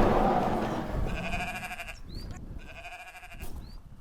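Sheep bleating twice, one call about a second in and another near the end. A brief rushing noise, the loudest sound here, comes at the start.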